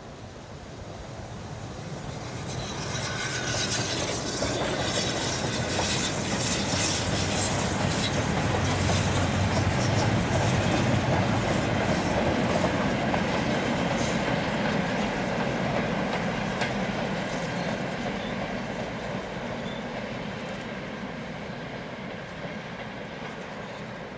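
Steam-hauled goods train passing: a BR Standard Class 9F steam locomotive working by, followed by a rake of four-wheel freight wagons clattering over the rail joints. It grows louder to a peak about ten seconds in, then fades as the train draws away.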